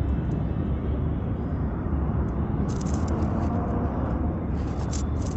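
Steady low wind rumble and road noise while riding an Ather 450X electric scooter, with brief hissing rushes about halfway through and again near the end.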